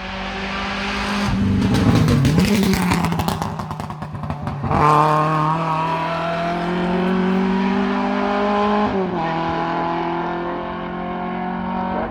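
Race car engine under hard acceleration on a hill climb. It is loudest and rough in the first few seconds, then climbs steadily in pitch and drops sharply at an upshift about nine seconds in.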